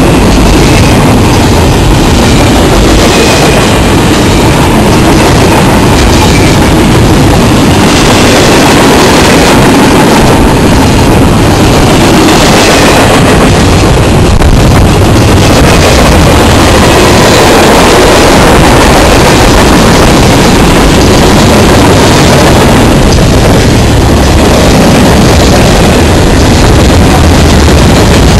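Norfolk Southern freight train cars passing at close range: a very loud, steady rumble and rattle of steel wheels on the rails, with faint repeated clicks from the wheels.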